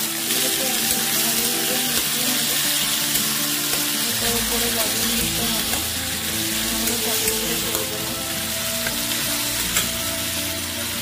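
Chopped tomatoes, green chillies and ginger sizzling as they fry in hot oil in a metal kadai, stirred with a metal spatula. Background music runs underneath.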